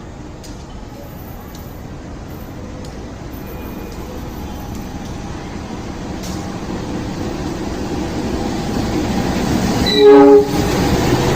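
Diesel-electric locomotive running, growing steadily louder as it approaches, then sounding one short, loud horn blast about ten seconds in.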